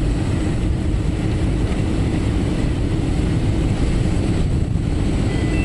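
Airliner cabin noise on final approach: the steady low rush of the engines and airflow as heard from inside the passenger cabin, even throughout, with a faint thin high tone above it.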